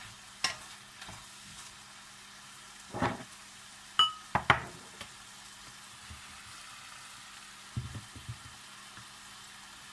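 Chicken pieces frying in butter in a pan, a steady sizzle, with a few sharp kitchen clinks and knocks over it. The loudest is a short ringing clink about four seconds in, followed by another clink and, near the end, a few soft knocks.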